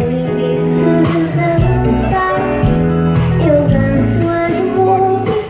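Music: a woman singing a slow pop song over guitar and band accompaniment.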